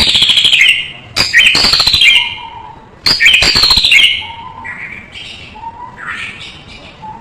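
White-rumped shama (murai batu) singing: three loud phrases in the first four seconds, each a run of falling whistled notes mixed with harsh rasping notes, then softer, lower calls.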